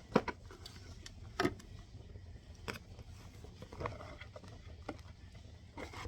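Oracle cards being handled as a reading is readied: a few scattered soft clicks and taps, roughly one every second, over a faint low hum.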